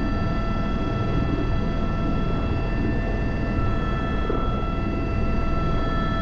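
Single-engine Airbus H125 (AS350 B3) helicopter hovering under load, heard from the cockpit: a steady rotor and turbine rumble with several constant whining tones above it.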